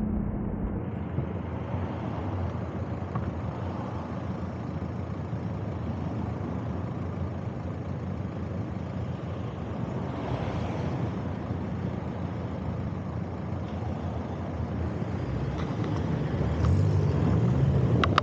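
Steady wind and road rush on the microphone of a moving bike, with a louder low rumble, like a passing vehicle, coming in near the end.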